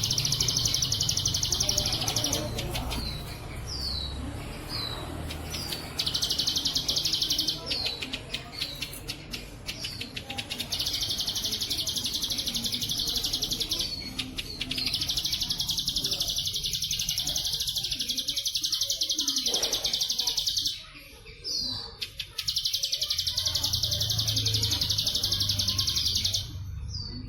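Bren cililin (cicada) buzzing: long, high, steady buzzes of several seconds each, with short down-slurred chirps in the gaps between them.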